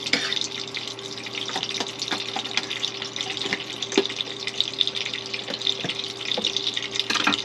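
Halved Brussels sprouts sizzling in hot olive oil and butter in a frying pan: a steady crackle with many small sharp pops, over a faint steady hum.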